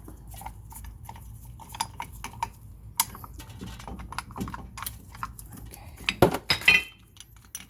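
Light metal clinks and clicks of a brake caliper piston compressor tool and an old brake pad being handled against the caliper. A louder, ringing metal clatter comes about six seconds in.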